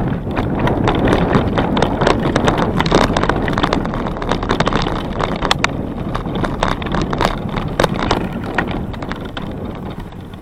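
Wind buffeting a moving camera's microphone, with a quick irregular patter of knocks and rattles from movement along a trail; it eases off somewhat near the end.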